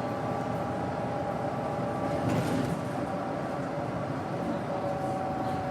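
Interior sound of a Daewoo BS110CN natural-gas city bus on the move: its Doosan GE12Ti turbocharged CNG engine and Allison automatic drivetrain running steadily, with a steady whine over road rumble. A brief louder rattle comes about two seconds in, and the whine's pitch steps slightly lower near the end.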